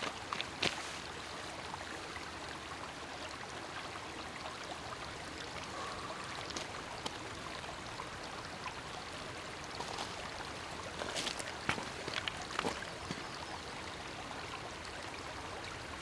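Steady running water, like a small stream trickling over rocks, with a few faint clicks and knocks scattered through, most of them about eleven to thirteen seconds in.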